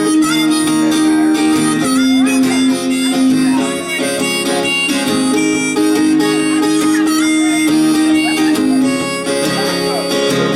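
Harmonica playing held, wailing notes in an instrumental break, over strummed acoustic guitar.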